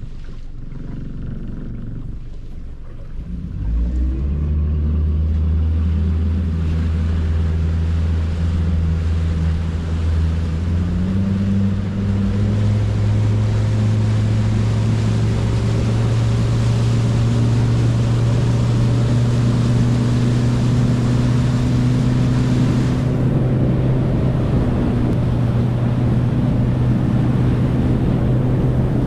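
Small boat's motor running under way. It is throttled up about four seconds in and rises in pitch again about eleven seconds in, then runs steadily over a broad hiss.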